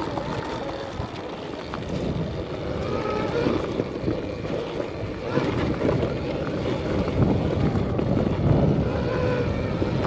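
Riding noise from an Arctic Leopard XE Pro electric dirt bike on a dirt trail: wind buffeting the microphone over the rumble and rattle of the bike on rough ground, with a faint whine that rises and falls now and then.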